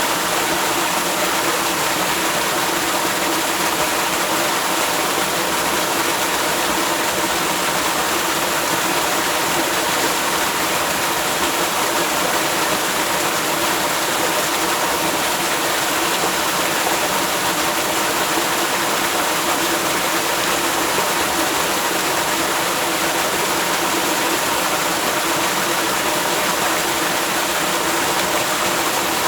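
Waterfall: a steady, loud rush of falling water that holds unchanged throughout.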